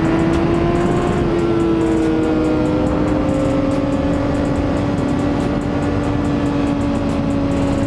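Honda CBR600RR inline-four engine running at high revs at a near-steady pitch that eases slightly lower, under rushing wind noise on the microphone.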